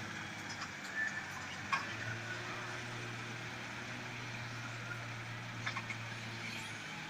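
Tractor diesel engine running steadily while working a front loader, its low hum growing stronger about two seconds in, with a few short knocks.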